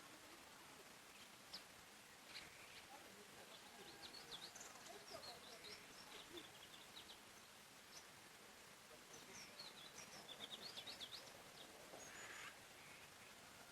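Faint forest ambience: small songbirds chirping in quick runs of short, high notes over a soft, steady background hiss.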